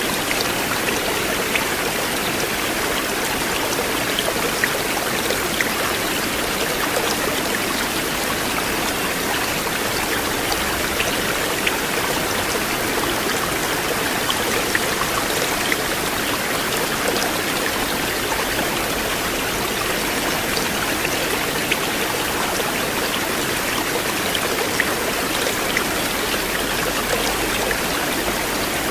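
River water flowing steadily: a constant rush with small splashes and drips scattered through it.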